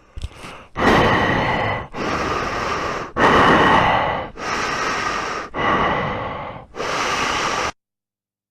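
A person breathing hard and loud, close to the microphone: a short first breath, then six long breaths of about a second each in quick succession, stopping abruptly near the end.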